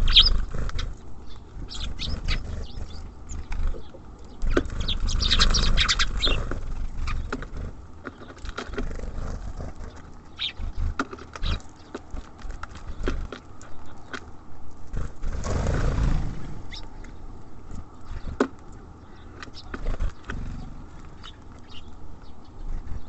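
Small songbirds, tits and sparrows, at a bird feeder: scattered short chirps and clicking taps throughout, with two louder rushes of noise about five and fifteen seconds in.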